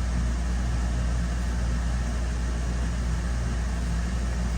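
Camper trailer's air conditioner running with a steady hum, just switched on and working.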